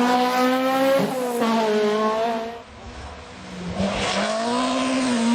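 Rally car engine running at high revs, its pitch dropping and climbing again through gear changes. About halfway it dies away briefly, then an engine note rises and falls again.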